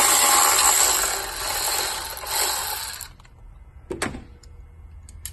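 A powered ratchet runs in one steady burst of about three seconds, undoing the bolt on the Miata's camshaft position sensor, then stops. About a second later there is a single metal knock, followed by a few light clicks of tool and part handling.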